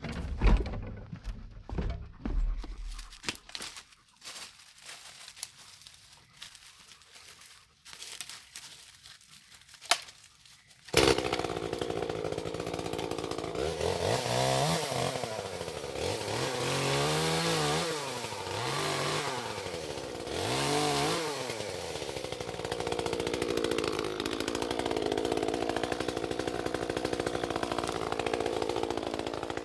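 Scattered light knocks, then a two-stroke chainsaw starts abruptly about a third of the way in. It is revved up and down about four times, then runs steadily under throttle.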